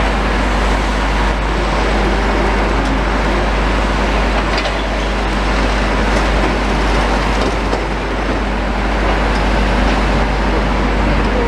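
Continuous engine noise with a constant deep rumble, a few faint ticks around the middle.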